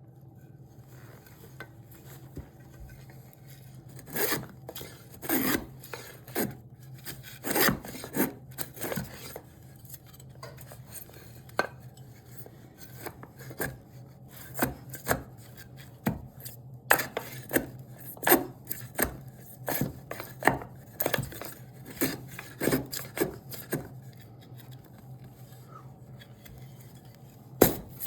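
Hand tool working cherry wood: a series of short, irregular scraping strokes, like sawing or rasping, over a steady low hum.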